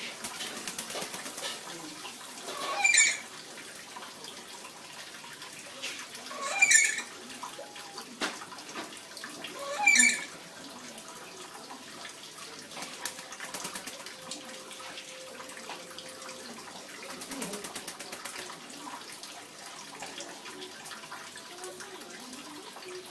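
Steady running water, with a pet nuri parrot giving three short, loud, shrill squawks about three and a half seconds apart.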